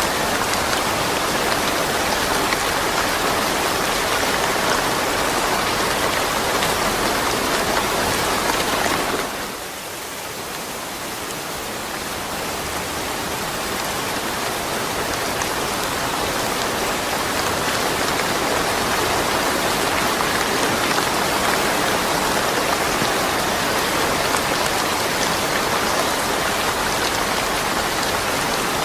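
Steady heavy rain falling, a dense even hiss that drops suddenly in level about a third of the way in and then gradually builds back up over several seconds.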